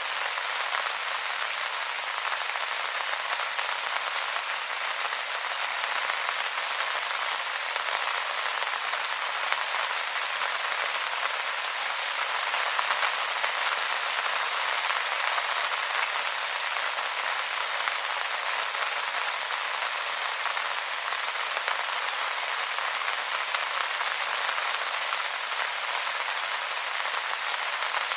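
Steady rain falling on wet leaves, a dense, even patter of drops.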